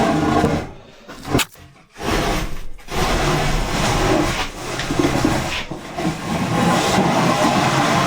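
Heavy 12 mm steel plate scraping as it is slid and shifted on the steel bench frame, in several long scrapes with short breaks between them.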